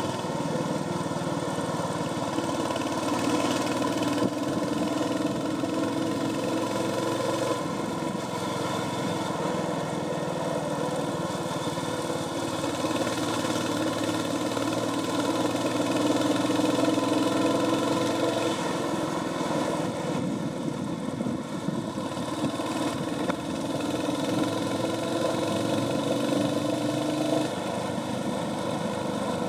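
Royal Enfield Hunter 350's single-cylinder engine running through its stock exhaust while riding, its pitch slowly rising and falling as the throttle changes. It eases off briefly about twenty seconds in.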